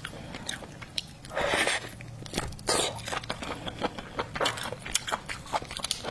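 Close-miked eating of seafood: biting and chewing with many wet clicks and crunches, and two louder rushes of noise about one and a half and two and three-quarter seconds in.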